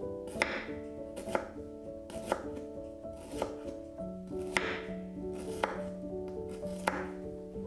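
Knife chopping on a cutting board, slow single cuts about once a second, over soft piano music.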